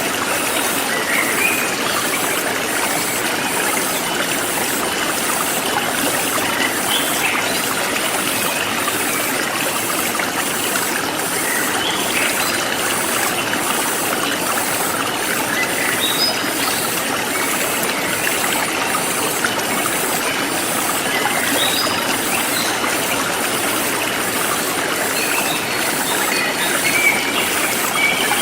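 Forest stream flowing steadily, with scattered short bird chirps and a high insect trill pulsing a little more than once a second.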